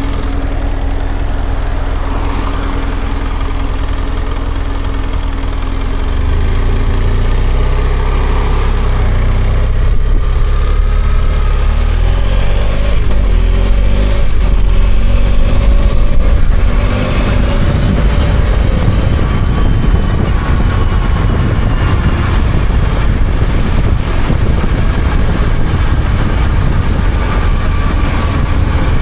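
BMW F800GS parallel-twin engine running steadily at low revs, then pulling away about six seconds in and revving up through the gears with a drop near the middle, settling into a steady cruise with wind and road noise.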